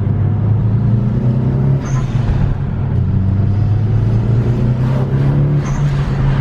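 Car engine running at a steady speed with a deep, even drone, and a brief high chirp about two seconds in and again near the end.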